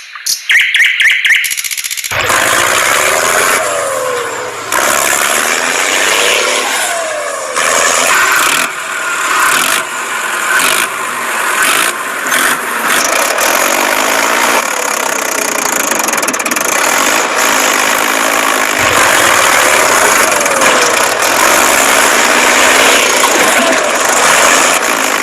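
Small vehicle motor running hard with a rough, noisy sound and repeated rises and falls in pitch, starting about two seconds in after a few quick clicks.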